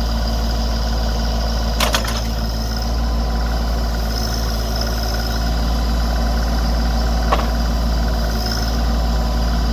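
Branson 2500 compact tractor's diesel engine running steadily, with two short sharp knocks, one about two seconds in and a fainter one later.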